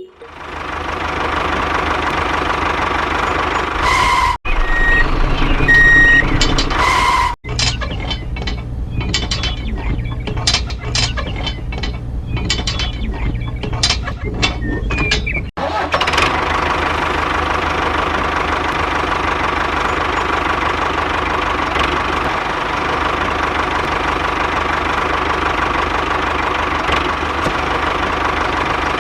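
Small motor of a DIY mini tractor running steadily, spliced from several clips. A short run of beeps comes about five seconds in, and rapid clicking and clatter follow from about eight to fifteen seconds.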